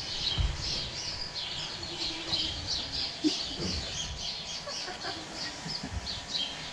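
Small birds chirping rapidly and continuously, several short high chirps a second, with a few low thumps mixed in.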